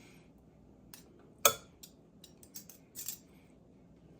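Cutlery clinking and tapping on a plate while a rouladen is cut in half. One sharp clink about a second and a half in is the loudest, followed by several lighter clicks.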